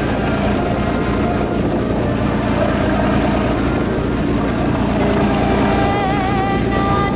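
A boat's engine runs steadily under wind buffeting the microphone. Near the end a wavering, sustained tone rises above it.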